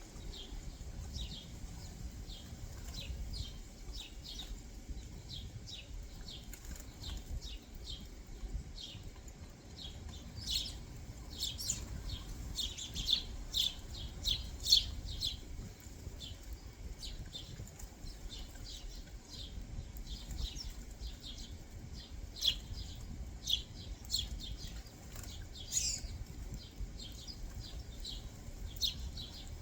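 Small backyard songbirds chirping: many short, sharp chips in quick succession, busier and louder about ten to fifteen seconds in and again a little past twenty seconds, over a low steady rumble.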